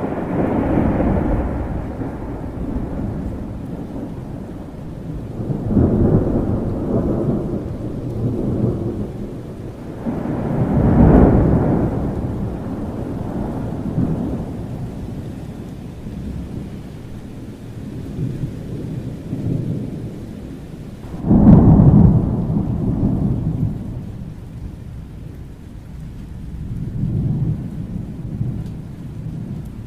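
Thunderstorm: steady rain with rolls of thunder rumbling in and fading several times, the loudest and sharpest-starting crack and rumble about two-thirds of the way through.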